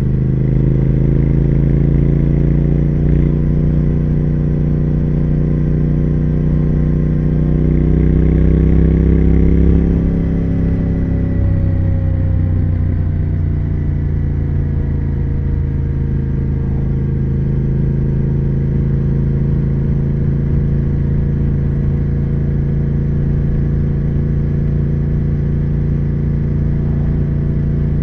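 2020 Triumph Speed Twin 1200's 1200 cc parallel-twin engine and exhaust under way, the revs climbing slowly and the sound growing louder for about the first ten seconds. The throttle then eases off and the engine settles to a lower, steady cruise.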